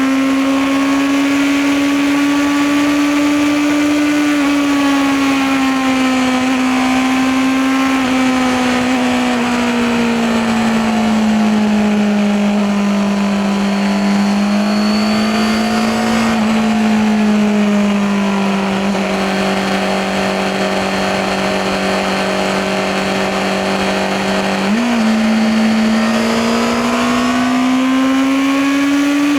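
Honda CBR650R's inline-four engine and exhaust under way at steady cruising revs. The note rises and falls gently with the throttle, gives a quick blip about 25 seconds in, then climbs again near the end.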